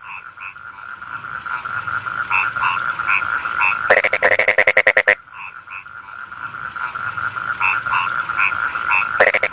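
Rice-field frogs croaking in a chorus of short repeated calls over a steady trill. About four seconds in, and again near the end, one frog gives a loud, rapid rattling call lasting just over a second.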